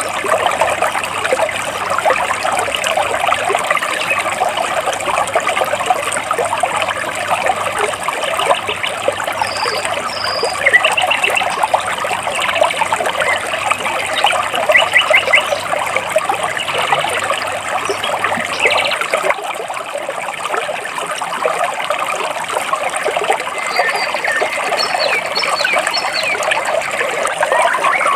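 Water babbling and trickling steadily between large rocks in a stream, with short bird chirps now and then over it.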